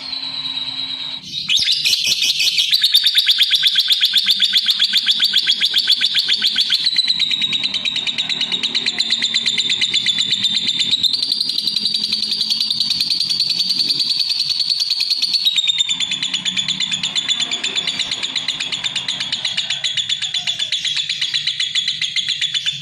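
Lovebird singing one long, unbroken, very fast chattering trill, the rapid chirps running together for about twenty seconds. The trill steps down slightly about a third of the way in, up about halfway, and down again later.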